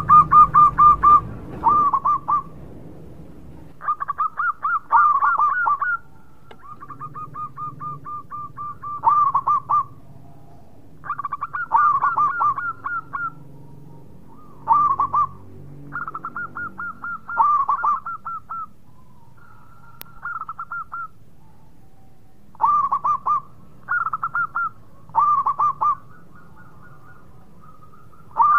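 Zebra dove (perkutut) cooing: repeated phrases of quick staccato notes, each phrase a second or two long, separated by short pauses.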